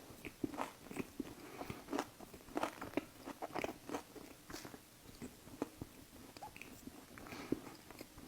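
Close-up bite into a Crumbl key lime cookie with a pie-crust base, then chewing: a run of short crisp crunches that thin out toward the end.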